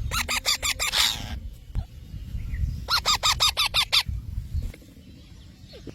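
Parrot giving two quick bursts of short, harsh repeated calls, about six or seven in each, one at the start and another about three seconds in. A low rumble runs underneath.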